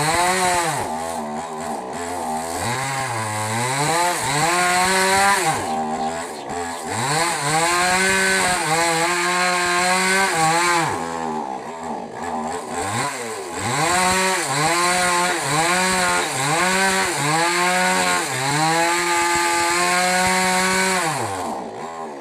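Small petrol mini chainsaw cutting wood. Its engine pitch drops again and again as the chain bogs into the cut and climbs back as it frees up. The sound stops abruptly near the end.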